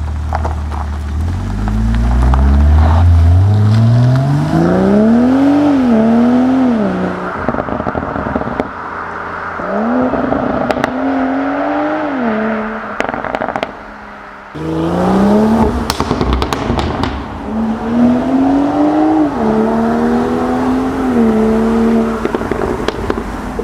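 A tuned BMW M340i's turbocharged 3.0-litre straight-six under hard acceleration in three separate pulls, its note rising with the revs and dropping at quick upshifts. Sharp exhaust crackles and pops come between the pulls, the loudest cluster after the middle one.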